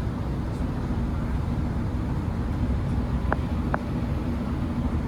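Great Western Railway diesel multiple unit running at the platform before departing, a steady low engine rumble with two short clicks about three and a half seconds in.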